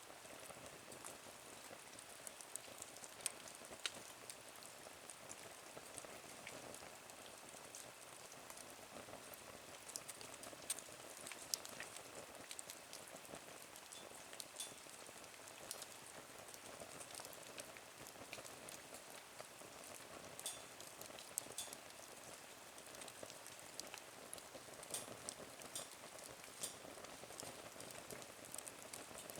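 Small wood fire crackling in a Nature Stove: a faint steady hiss with scattered sharp pops and ticks throughout.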